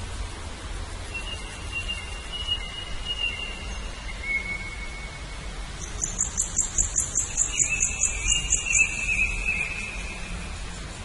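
Birds calling: long thin whistles, then from about six seconds in a fast trill of high ticks, about four or five a second for some three seconds, overlapping another whistle. A steady low rumble runs underneath.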